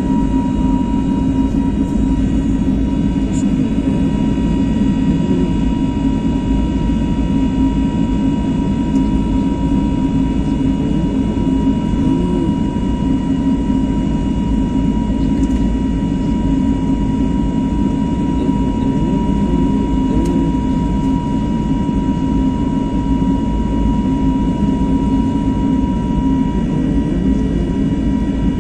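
Airbus A321neo's CFM LEAP-1A turbofan engines running steadily: an even, continuous drone with a steady whine and several fainter higher tones held over it.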